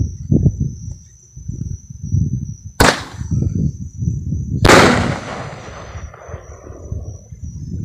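Two sharp firework bangs about two seconds apart; the second is louder and rolls away in a long echo. A steady high insect drone runs underneath.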